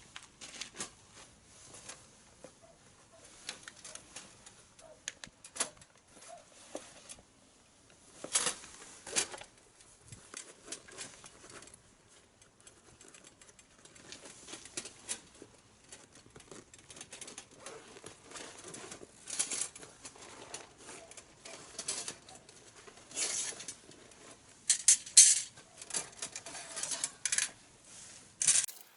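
Wood fire crackling, with irregular sharp pops and snaps, a few louder clusters of them near the middle and toward the end.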